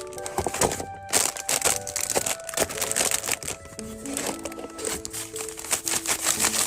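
Packaging material crinkling and rustling in quick bursts of clicks as it is handled while packing an order, over background music of held notes.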